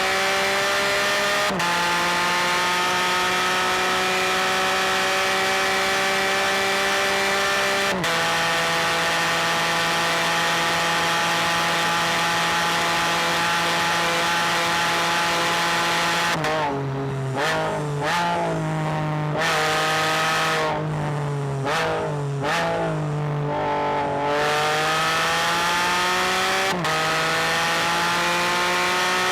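Rotax 1330 three-cylinder engine of a Can-Am Spyder F3-S with the catalytic converter deleted, pulling hard up through the gears with a sudden drop in revs at each upshift. In the middle it goes off the throttle with quick rev blips on the downshifts, then accelerates up through the gears again.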